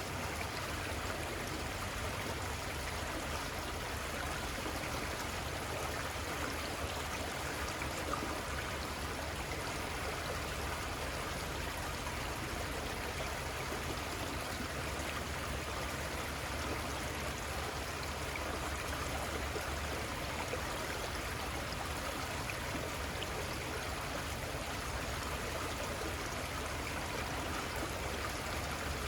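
Small river flowing, a steady, unbroken rush of running water.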